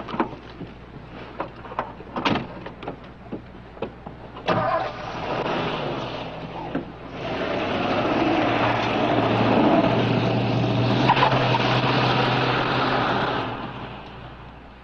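Car door knocks, then a patrol car engine starting and the car pulling away, its engine and road noise rising and holding for several seconds before fading near the end.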